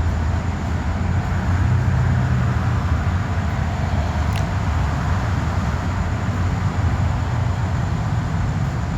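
Steady low rumble with a hiss above it, the even noise of a moving road vehicle, with a faint click about four seconds in.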